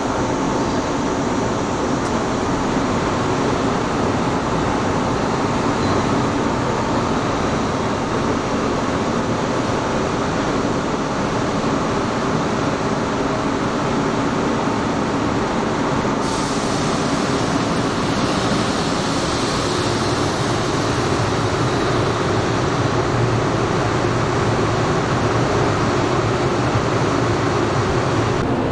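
A 115-series electric train standing at the platform with its doors open, its air-conditioning and other onboard equipment giving a steady hum and hiss. About halfway through, a higher hiss joins in.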